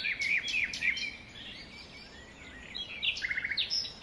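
Birds chirping in short, high calls over a faint steady hiss. The calls thin out after the first second, then a quick run of about six notes comes a little after three seconds in.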